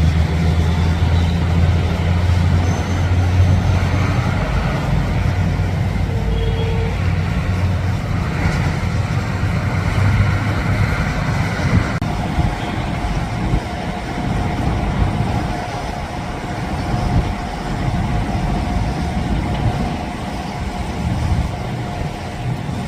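Airliner engines as a deep, steady rumble that fades over the first half as the aircraft moves away, with a faint steady hum throughout.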